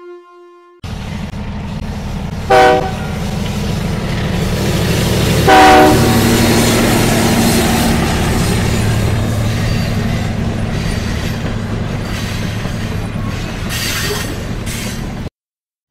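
A train running with a steady low rumble, sounding its horn in two short blasts about three seconds apart. The recording cuts off abruptly near the end.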